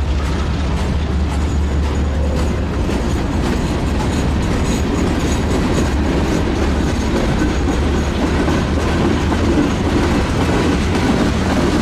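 Freight train cars rolling past steadily, their wheels clicking over the rail joints with a steady low rumble.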